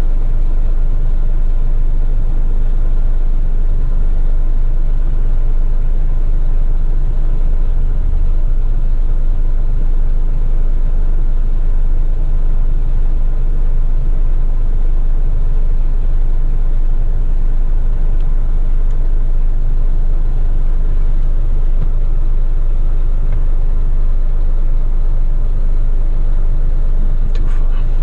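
Eight-wheeler garbage truck's diesel engine running, a steady heavy low rumble with road noise, and a brief click near the end.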